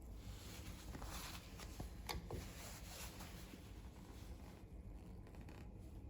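Faint handling noise: a soft rustle with a few light clicks, the sharpest about two seconds in, over quiet room hiss.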